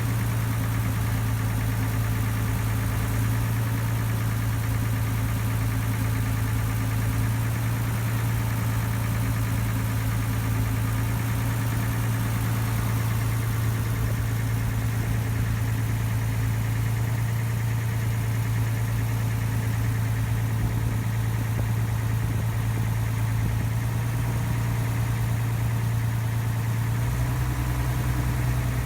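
Ferry boat's engine running steadily, heard on board: a constant low drone whose tone shifts slightly just before the end.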